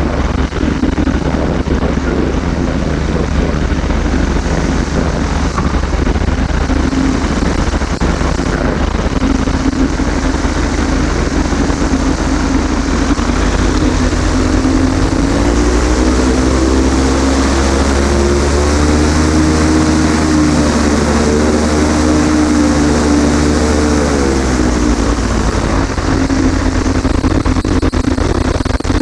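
Flexwing microlight trike's engine and propeller running steadily with wind noise; about halfway through the engine note rises, holds for several seconds, then drops back near the end.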